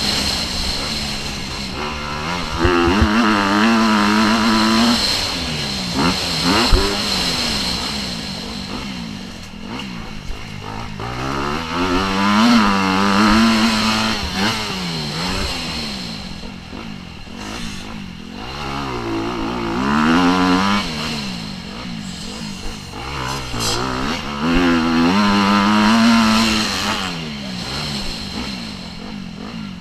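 Motocross dirt bike engine being ridden hard, its pitch climbing and dropping again and again as the throttle opens and shuts through the gears, with louder surges every several seconds.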